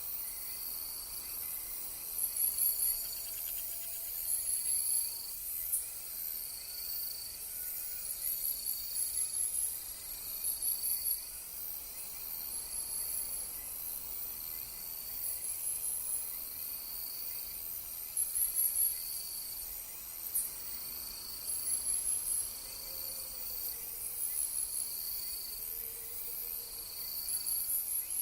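Night-time woodland insects chirping in short repeated bursts every second or two, over a steady high-pitched insect hiss.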